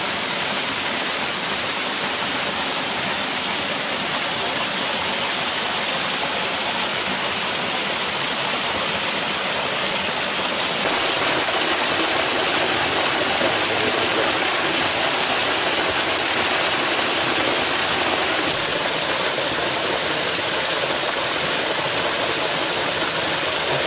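Waterfall pouring over rock steps: a steady rush of falling water. It grows louder and brighter about eleven seconds in and falls back about seven seconds later.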